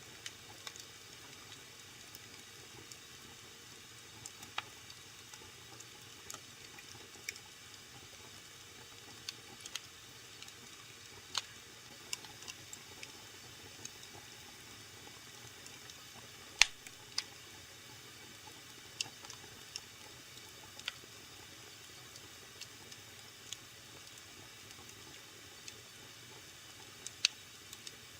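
Wood fire burning in a fireplace: a steady soft hiss with scattered sharp crackles and pops, the loudest pop a little past halfway.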